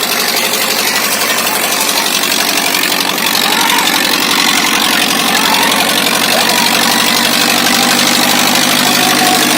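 Farmtrac 6055 tractor's diesel engine running steadily, getting louder about three seconds in.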